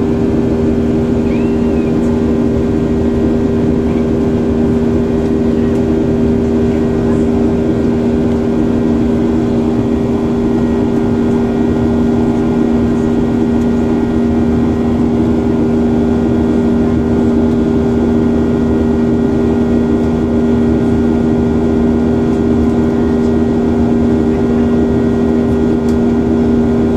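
Airliner engines heard inside the passenger cabin: a steady, loud drone with two strong hum tones over a low rumble, unchanging throughout.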